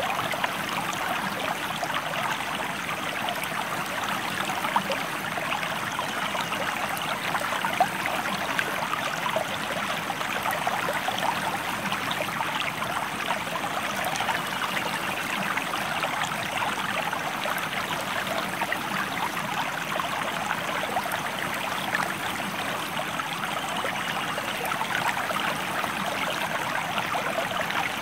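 Stream water flowing steadily: a constant rush with many small splashes and trickles, unchanging throughout.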